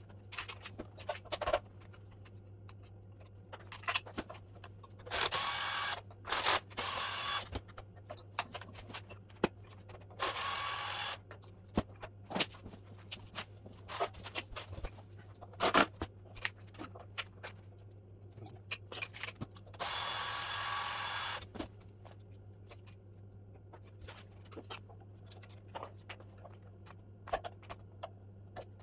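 Cordless power screwdriver running in four short bursts of about a second each, the longest about 20 seconds in, as screws are driven out of a mitre saw's housing. Between the bursts come scattered clicks and knocks of screws and plastic parts being handled, over a steady low hum.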